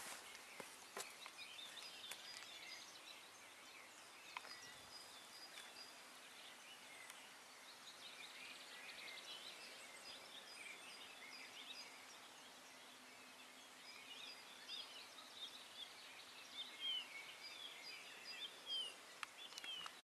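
Faint outdoor birdsong: several small birds chirping and twittering in short, high, quick phrases, with a thin repeated high note. The chirps grow louder near the end.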